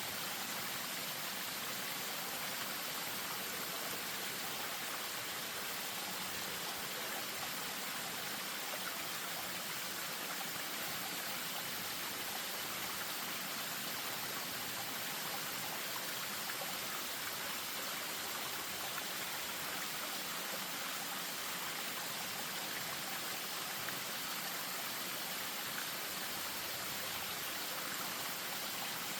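Spring-fed stream running over a small waterfall: a steady, even rush of water with no breaks.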